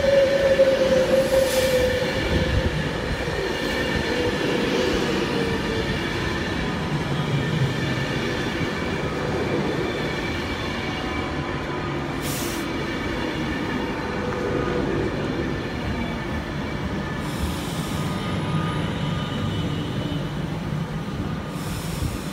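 Virgin Trains class 390 Pendolino electric train slowing into the platform, its whine falling slowly in pitch over the first several seconds while the running noise gradually fades. Brief hisses come about twelve and seventeen seconds in.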